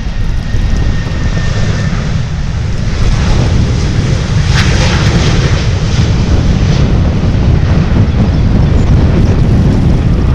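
Jet airliner's engines rumbling loudly, building over the first few seconds and then holding steady.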